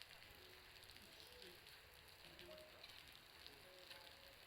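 Faint, irregular small ticks and crackles from a bonfire burning and meltwater dripping off a roof behind it. The drips sound much like the fire's crackle.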